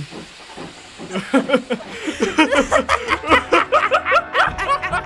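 Character voices snickering and laughing in quick repeated bursts, starting about a second in.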